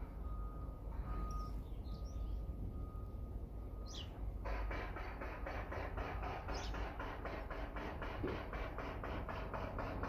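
Small birds chirping in short calls, one with a quick falling note, over a low steady rumble. About halfway in, a regular pulsing starts at roughly four to five beats a second and runs on.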